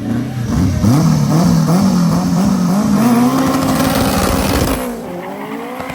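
A race car's engine is revved hard in quick rises and falls, then held at high revs as the car pulls away. The sound drops off suddenly about five seconds in, leaving a quieter engine running.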